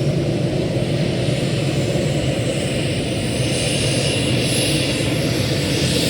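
Military helicopter running on the ground: rapid rotor beating under a high turbine whine that slowly rises in pitch.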